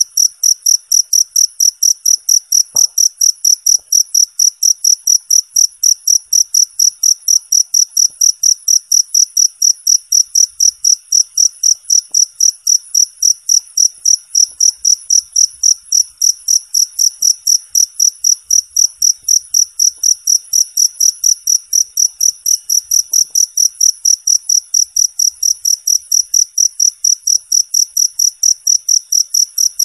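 Cricket chirping steadily in a fast, even rhythm of high-pitched chirps, several a second, with no change throughout.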